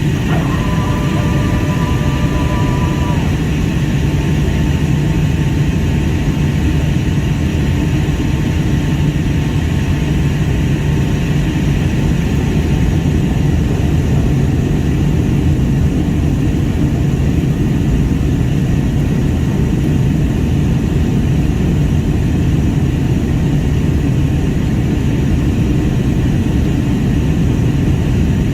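Steady cabin noise of a Boeing 757-200 airliner in flight on its descent toward landing: a constant low rumble of engines and airflow with a steady hum. A brief steady tone sounds for a few seconds near the start.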